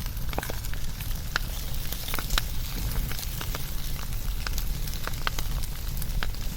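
Wood fire burning: a steady low rumble and hiss of the flames with frequent irregular sharp crackles and pops.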